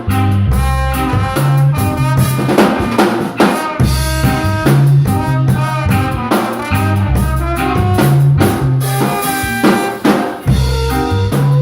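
A band playing live instrumental music, with a drum kit keeping a steady beat under a low bass line and held melody notes.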